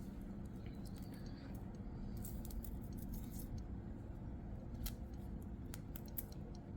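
Faint scattered clicks and small handling noises over a steady low background hum.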